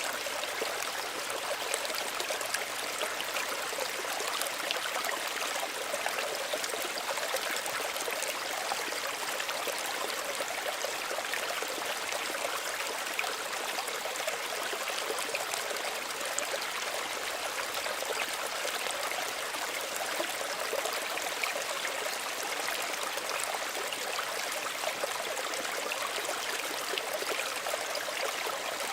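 Small stream running over stones, a steady babble of trickling and splashing water with fine droplet detail.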